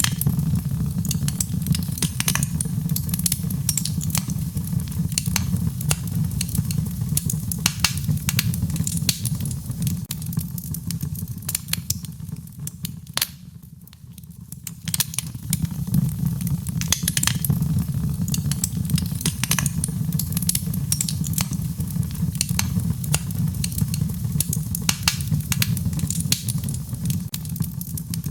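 Wood fire crackling in a fireplace: frequent sharp pops and snaps over a steady low rumble of flames, easing briefly about halfway through.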